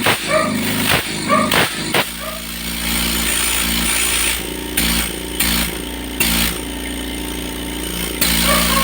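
Oil-free dental air compressor running steadily after its piston seals were replaced, a low hum with a slowly swelling and easing tone. Background music with a steady beat plays over it during the first two seconds.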